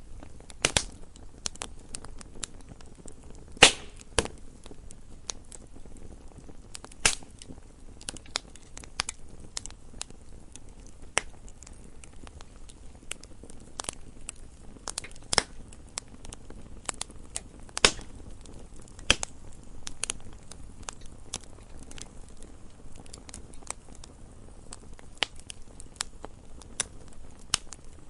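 Campfire crackling: irregular sharp pops and snaps of burning wood, a few much louder than the rest, over a low steady rumble of the flames.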